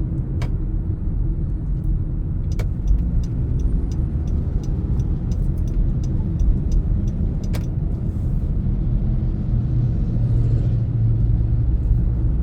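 Car engine and road rumble heard from inside a moving car, with a few sharp clicks. The low engine note grows louder about ten seconds in.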